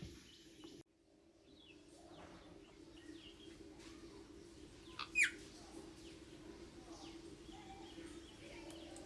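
Birds calling: scattered faint chirps and one louder, short call that sweeps sharply down in pitch about five seconds in, over a steady low hum.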